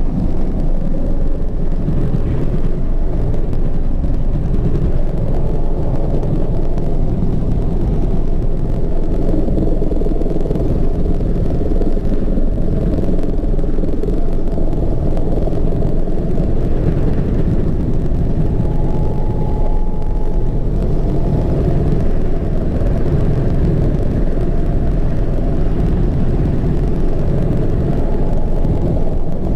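Steady, loud engine and rotor noise heard inside the cockpit of a Mi-35 attack helicopter in flight, its twin turboshaft engines running without change.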